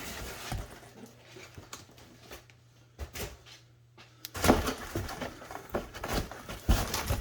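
Cardboard box and packaging being handled and opened by hand: scattered knocks, scrapes and rustling. It goes quiet for a moment about halfway through, then picks up with a busier run of knocks and rustle.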